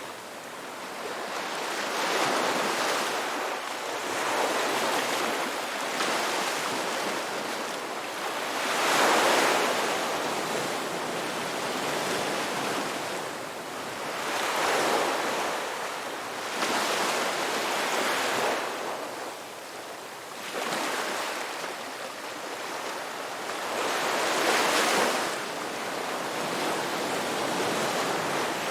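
Ocean surf washing onto a beach, a steady hiss that swells and falls back in repeated surges every few seconds as the waves come in; the biggest surge comes about nine seconds in.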